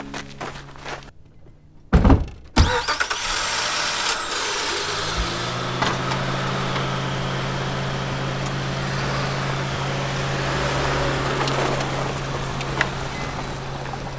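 Two car doors slam shut about half a second apart, then an Acura MDX SUV's V6 engine starts about five seconds in and settles into a steady idle.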